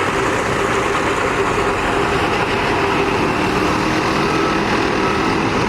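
Semi-truck's diesel engine running steadily at low speed while the rig is manoeuvred to back into a loading dock.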